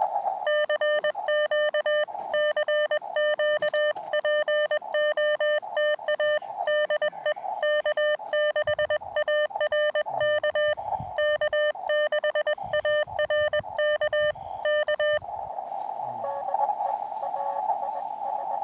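Morse code (CW) sent on a portable HF ham radio: the transceiver's sidetone keyed in rapid dots and dashes for about fifteen seconds, with receiver hiss between the elements. The keying stops near the end, leaving only the narrow-filtered receiver hiss.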